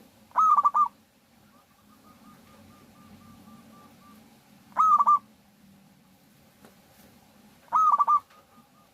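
Zebra dove (perkutut) cooing: three loud short phrases, each a rising note run straight into a quick stutter of coos. Between them a fainter string of rapid, evenly spaced notes keeps going.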